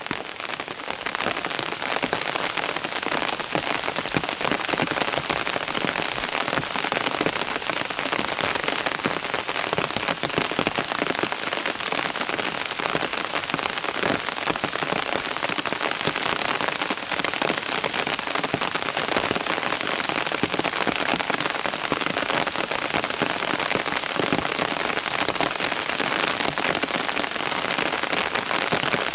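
Steady rain falling, a dense patter of many drops on surfaces.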